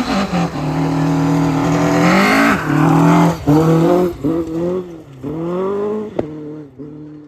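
Rally car engine pulling hard through the gears: the pitch climbs several times and drops briefly between climbs. A single sharp crack comes about six seconds in, after which the engine tone is lower and fainter.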